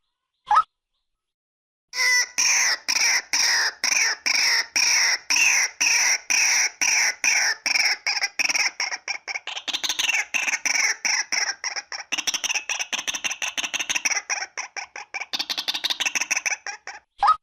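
Female white-breasted waterhen calling. A couple of single notes come first, then about two seconds in a long run of harsh repeated notes begins. It goes at about three notes a second at first and quickens to about six a second later on.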